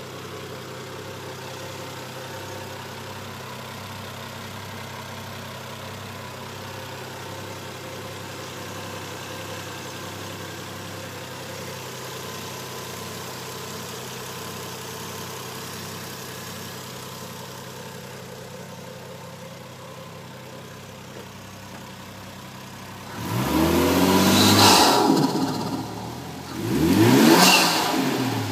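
Toyota Mark II (X110) engine idling steadily, then revved twice in quick succession about 23 and 27 seconds in, its pitch rising and falling back each time.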